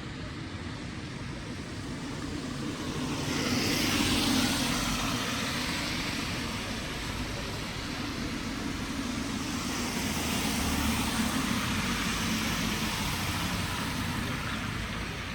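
Motor vehicles passing on a wet road, their tyre hiss swelling up about four seconds in and again around ten to twelve seconds.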